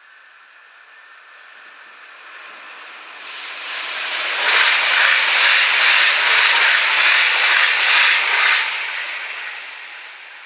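Stadler FLIRT electric multiple unit passing at speed: the rush of wheels on rail swells over a few seconds, stays loud for about four seconds as the train goes by, then fades away.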